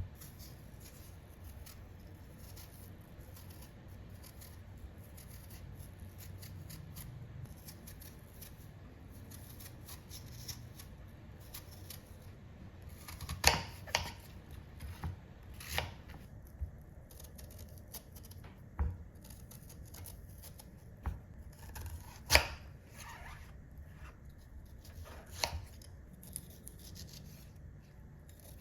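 Scattered sharp clicks and snips of small objects being handled, with a few louder snaps among many soft ticks.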